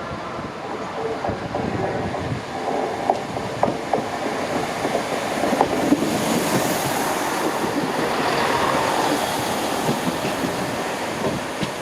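A train running on the track, its noise building to a peak about eight seconds in, with sharp knocks from the wheels over the rails.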